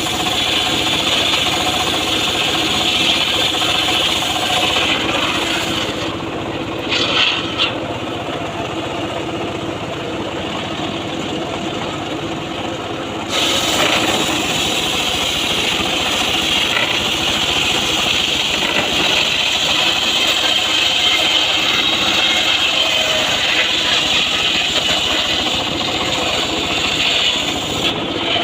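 Homemade circular saw running steadily while sawing mahogany, with a steady hum under a high hissing cutting noise. About six seconds in, the cutting noise drops away for roughly seven seconds, then comes back abruptly and runs on.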